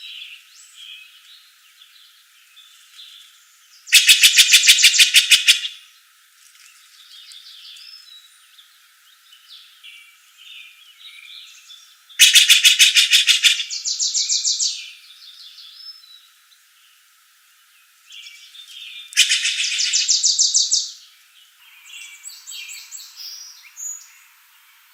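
Birds singing: one bird gives a loud, rapid pulsed trill three times, the second ending in a higher-pitched part. Softer chirps and short phrases from other birds run between the trills.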